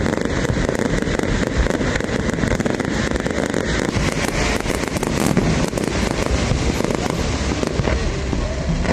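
Fireworks going off continuously: a dense, rolling barrage of booms and rapid crackling bursts overlapping with no pause.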